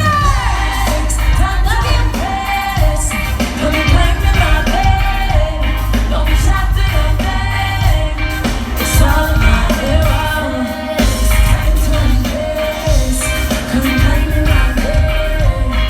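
Amplified live pop music: a female vocal group singing a melody over a heavy bass beat through a sound system, at a sound check.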